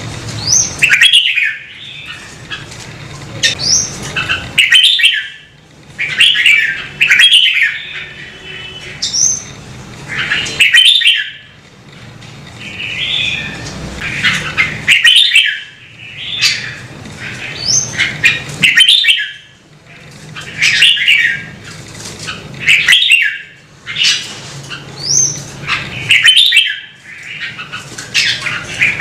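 Red-whiskered bulbul singing: short, loud warbling phrases repeated about every two seconds, many with a quick rising whistle.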